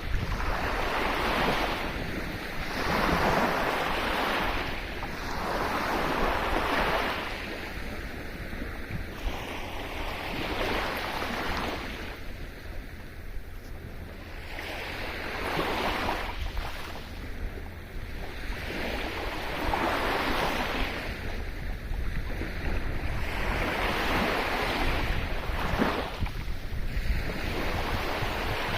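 Sea waves breaking and washing up a shore, each surge swelling and fading a few seconds apart, over a steady low rumble of wind on the microphone.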